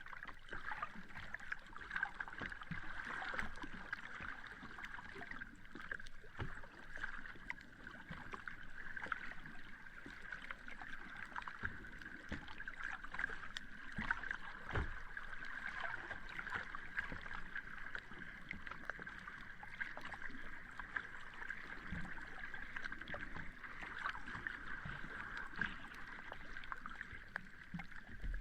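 Sea water washing on a beach: a steady, even wash of surf, flecked with many small crackles.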